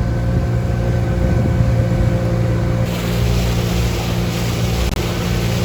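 Gladiator 9.9 hp outboard motor running steadily at cruising speed as the boat moves along, a constant low drone with rushing water and wind noise over it.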